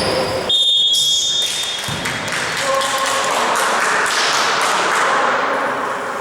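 Indoor basketball game sounds: a shrill high steady tone starts about half a second in and lasts about a second, followed by a general din of the hall with scattered taps of play.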